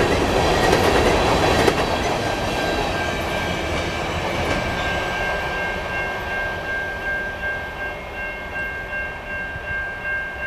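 Covered-hopper freight cars rolling past, their wheels clattering over the rail joints, fading steadily as the end of the train moves away. From about halfway a steady high ringing of several pitches holds on through the end.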